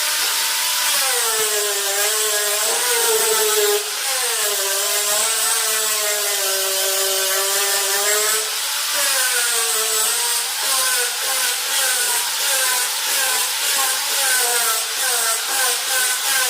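Electric power tool cutting wood, its motor whine dipping in pitch under load and recovering again and again.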